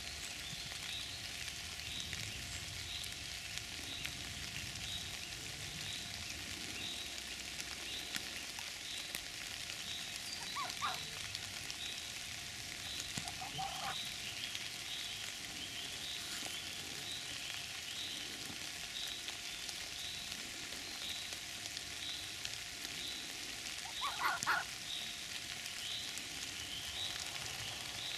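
Steady rain falling on the forest floor, with a faint high chirp repeating about twice a second and three short calls about 11, 13 and 24 seconds in, the last the loudest.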